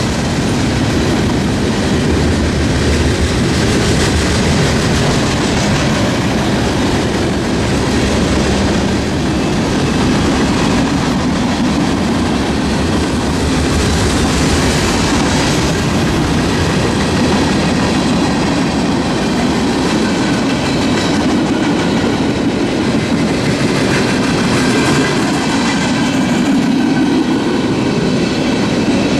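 Freight train cars rolling past close by: a steady, loud rumble with wheels clicking over rail joints.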